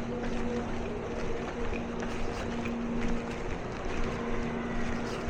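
An engine running steadily with a constant hum, over a rough noise.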